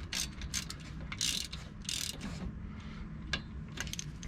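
Hand ratchet clicking in short, uneven runs, with a couple of longer rasps about a second and two seconds in, as it runs down the bolts holding the front driveshaft's U-joint to the axle yoke.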